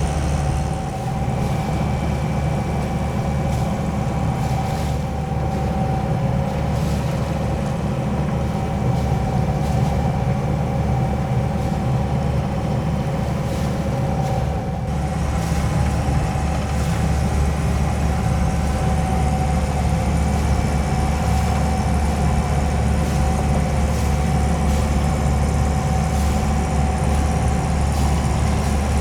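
Sailboat's inboard engine running steadily under way: a constant low drone with a steady higher hum above it.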